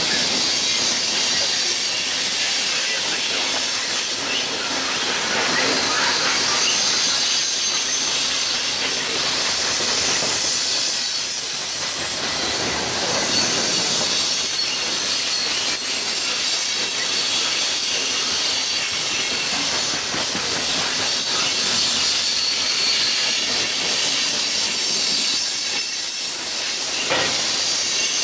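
A loaded coal train's steel hopper cars rolling past, a steady noise of wheels on rail that neither rises nor fades.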